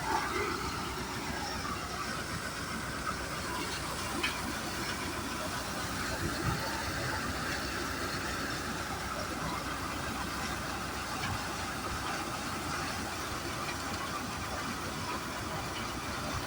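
HMT 5911 tractor's diesel engine running steadily under load, driving a paddy threshing machine, with the thresher's whirring mixed in.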